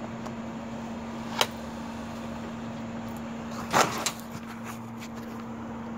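Handling knocks and clicks from a welding helmet being adjusted: a sharp click about one and a half seconds in and a louder knock near four seconds, over a steady low hum.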